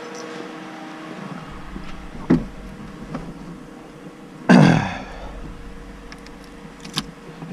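A car door being worked: a click, then a loud thump with a brief downward creak about four and a half seconds in, and another sharp click near the end, over a low steady rumble.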